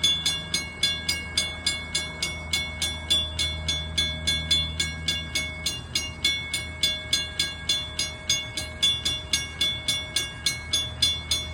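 Railroad bell ringing rapidly and steadily, about three strikes a second, over a low steady hum.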